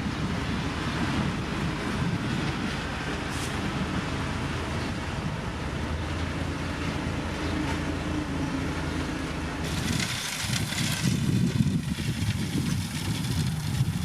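Heavy diesel construction machinery running steadily with a low engine hum. About two-thirds of the way through the sound changes to a rougher rumble with a hiss over it.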